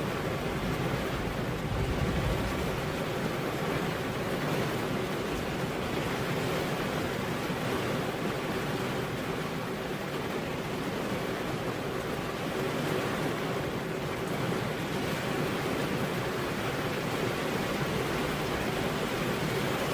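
Steady rain falling, an even unbroken hiss with a low rumble underneath.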